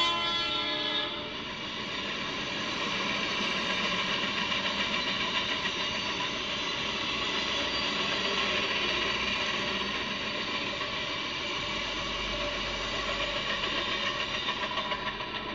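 Canadian Pacific Holiday Train passing a grade crossing: the locomotive horn cuts off about a second in, then a steady rush and rumble of the cars going by, with a rhythmic beat from the wheels.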